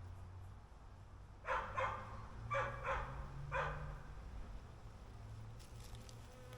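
A dog barking about five times in quick succession, over the low steady hum of honeybees around an open hive.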